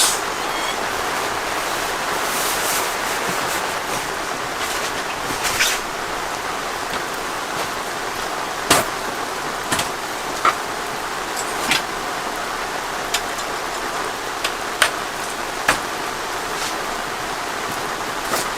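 Steady rain falling, with scattered sharp drop impacts at irregular intervals.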